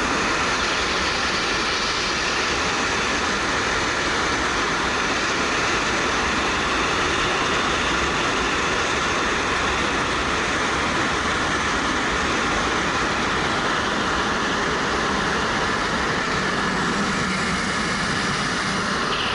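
Steady wind rush on a helmet-mounted action camera while riding a 2013 Suzuki GW250 motorcycle, with its parallel-twin engine running under the wind noise.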